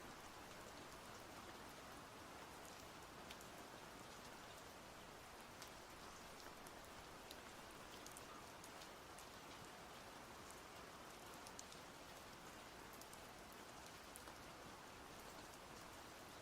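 Faint, steady rain: an even hiss with many scattered small drop ticks.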